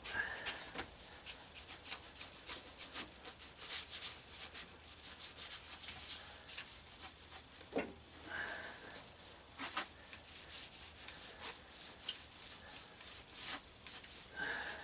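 Cloth rag rubbed briskly back and forth over a steel saw blade, buffing beeswax in by hand: a run of quick scrubbing strokes, with a short squeak three times.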